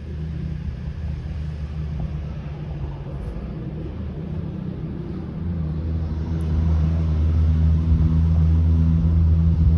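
A low, steady rumble that grows louder about six seconds in.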